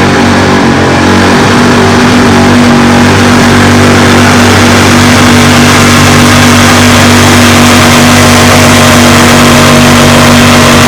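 A pulling truck's engine running flat out at high, steady revs under full load while it drags the weight sled down the track. Its pitch shifts slightly about a second in and then holds steady.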